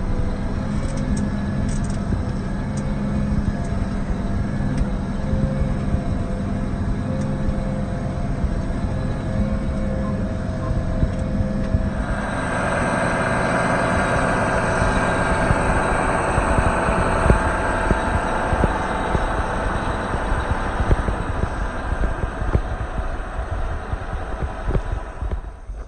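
John Deere 8245R tractor's six-cylinder diesel engine running steadily after a cold start at about 4 degrees; about twelve seconds in, a louder, even rushing noise comes in over the engine and holds until near the end.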